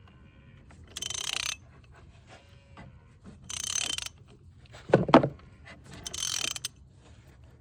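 Hand socket ratchet clicking in three short runs, about two and a half seconds apart, as it is worked to tighten a fastener. A single louder knock comes about five seconds in.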